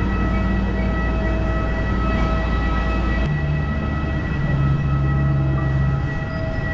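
Steady high-pitched whine of a jet aircraft's turbine over a low rumble, with the rumble changing about three seconds in.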